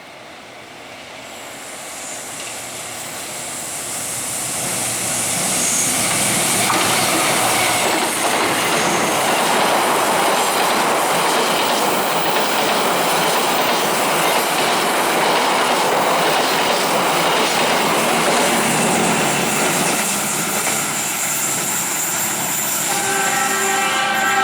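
A train passing close by: the rumble and rattle of its wheels on the rails swells over the first few seconds, then holds loud and steady. Near the end its horn starts to sound.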